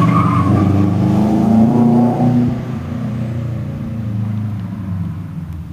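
Turbocharged flat-four of a 2005 Subaru WRX, breathing through a catless turboback exhaust, pulling hard under acceleration, then fading for the last few seconds as the car moves away.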